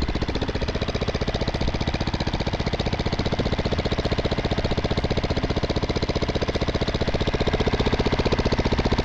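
Master (Ultimotor) small air-cooled engine running steadily, with an even, rapid firing beat.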